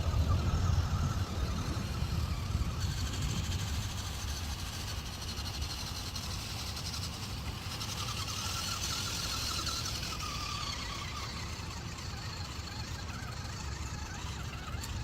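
Small RC 6x6 truck's electric motor and gears whining as it drives. A low rumble fades after about three seconds, and the whine rises and falls a little past the middle.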